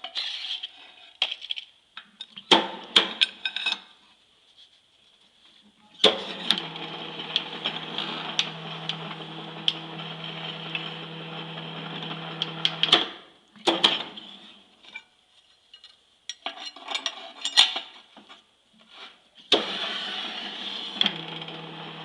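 Homemade motor-driven scroll bender ('snail') for cold forging, running with a steady hum and stopping twice, with metallic clanks and clicks of steel bar being handled between runs.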